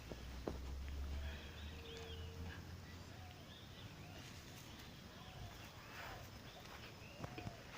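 Faint outdoor ambience of small birds chirping over and over, with a few soft clicks and a low hum that fades after the first couple of seconds.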